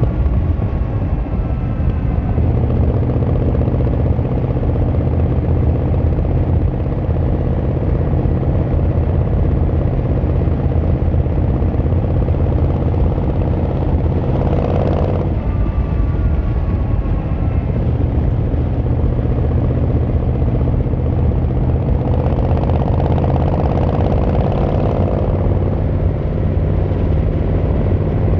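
Yamaha XVZ1300 Royal Star's V4 engine running steadily under way, its pitch climbing slowly through the first half. Two brief rushing swells rise and fade, one about halfway and one near the end.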